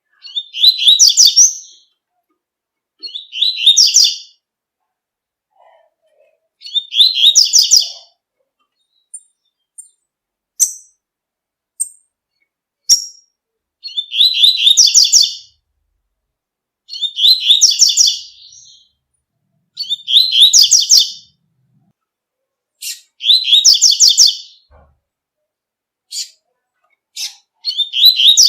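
Double-collared seedeater (coleiro) singing the tui-tui song: short, high phrases of rapid repeated notes, about eight in all, coming every few seconds, with a few single chip notes in a longer pause partway through.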